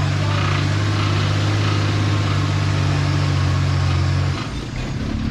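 Off-road 4x4's engine running at a steady low drone as it crawls up a steep muddy slope, the note dropping away about four seconds in.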